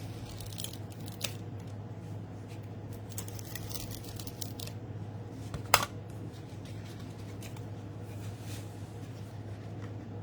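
Paper and cardstock being handled on a craft table: light rustles and small taps, with one sharp click a little past halfway, over a steady low hum.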